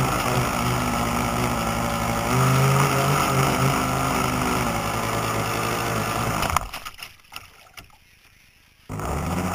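A boat motor running steadily with water noise; its note grows louder about two seconds in. About two-thirds of the way through it cuts out, leaving it much quieter for about two seconds before the motor sound comes back near the end.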